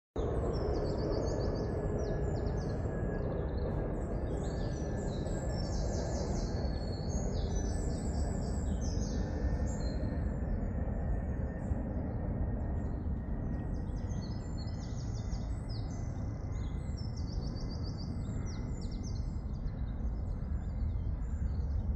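Small birds calling over and over in quick, high chattering runs, over a steady low outdoor rumble.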